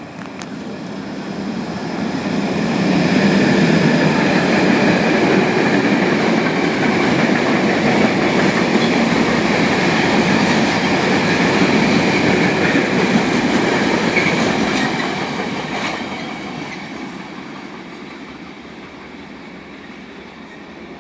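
Locomotive hauling a freight train passing by: the rumble and wheel noise build up over the first few seconds, stay loud with a steady high whine from the locomotive, then fade away over the last several seconds.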